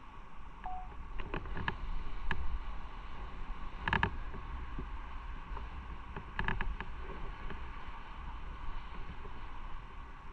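Motorcycle on the move: a steady low rumble with wind and road noise, broken by a few short knocks or rattles, the loudest about four seconds in.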